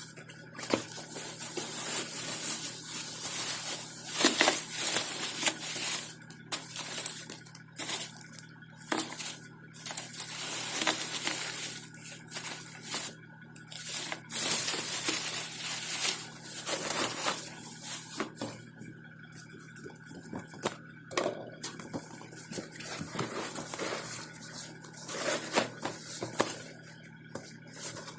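Rustling and clinking as painting supplies and gear are handled and taken out of a satchel, with irregular knocks and crinkles.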